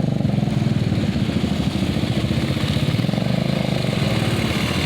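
ATV engine running steadily at low speed, with a fast, even throb that holds the same pitch throughout.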